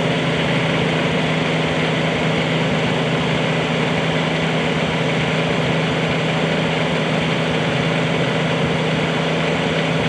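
Bobcat 320 mini excavator's diesel engine running at a steady speed, a constant hum with no change in pitch or load.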